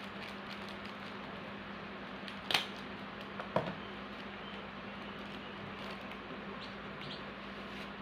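A steady low electrical hum over room noise, with two short sharp clicks about a second apart near the middle and a few fainter ticks, typical of small items being handled.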